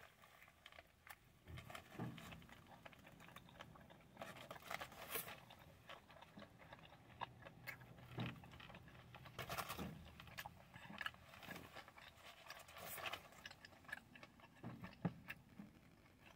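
Faint, irregular chewing of a bite of a crispy chicken tender wrap with coleslaw in a flour tortilla: small scattered mouth clicks and moist chewing noises.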